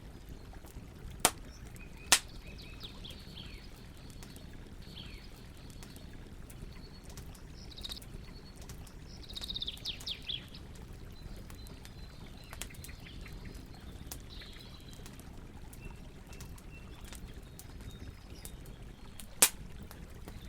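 Campfire crackling, with small scattered crackles and three loud sharp pops: two in the first couple of seconds and one near the end. Birds chirp in short bursts, busiest about halfway through.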